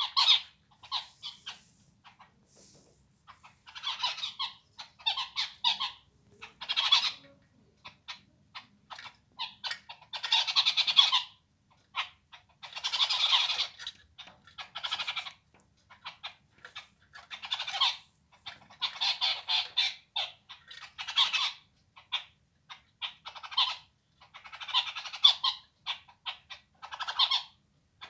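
Birds calling in a long run of squawking calls, some short and some about a second long, separated by brief pauses.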